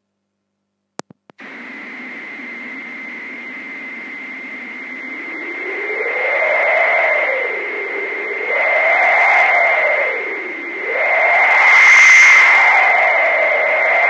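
Homemade analogue wind generator: white noise through a resonant filter whose peak sweeps slowly up and down, giving a gusting, whooshing wind sound that grows louder. It switches on with a couple of clicks about a second in, and a steady high-pitched whine runs under the noise.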